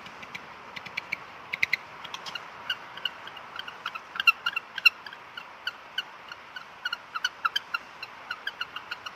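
Many short, high-pitched squeaks from a small animal, coming irregularly a few times a second over a steady hiss.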